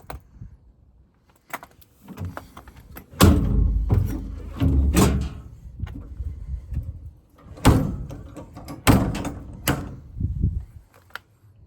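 Cab door of a Ford F750 truck being opened, swung and shut: a series of about five heavy thuds and knocks spread over several seconds.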